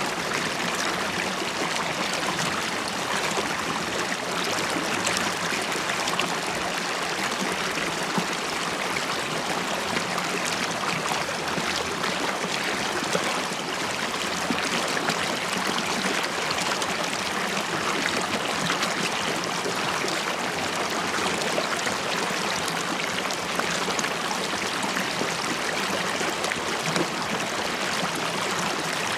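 River water flowing and burbling over stones: a steady rush with fine bubbling and trickling that never lets up.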